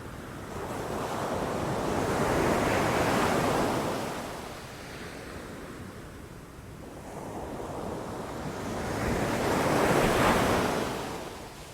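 Ocean waves breaking on a shore: two swells of surf, the first building over the first few seconds and fading, the second, louder one cresting near the end and subsiding.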